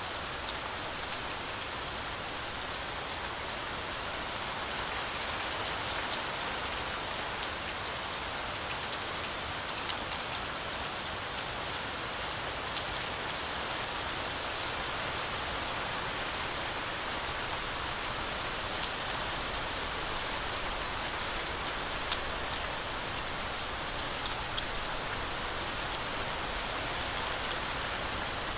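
Heavy rain falling steadily through forest trees, a dense even hiss with a few sharper single drop hits here and there.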